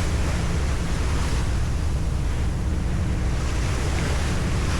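Wind rushing over the microphone aboard a moving car ferry, over a steady low rumble and the wash of the sea.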